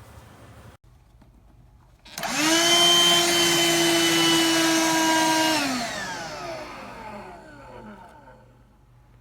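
BLACK+DECKER 20V dustbuster cordless handheld vacuum switched on about two seconds in. Its motor spins up to a steady high whine, runs for about three and a half seconds, then is switched off and winds down with falling pitch. This is the unit the reviewer says blows out a lot of air and barely sucks.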